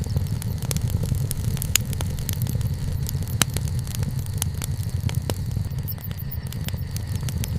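Wood bonfire burning, with a steady low rumble under frequent sharp crackles and pops; a few pops stand out louder, one about a second and a half in and another near the middle.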